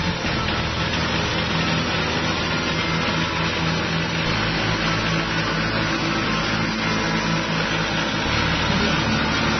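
Kubota L245 compact tractor's diesel engine running steadily, driving an Agrator rotary tiller. The bottom of the drone shifts about four seconds in and again near the end.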